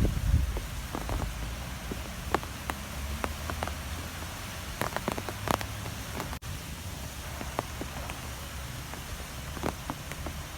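Strong wind rumbling low and steady, with scattered sharp ticks and taps over it like rain striking a surface.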